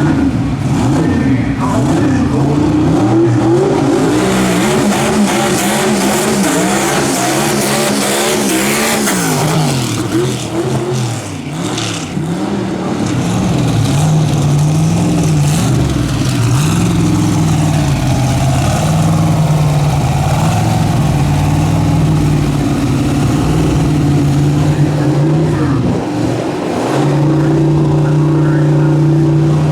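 Twin-turbo V8 dragster engine revving up and down over and over, then held at a steady high pitch near the end.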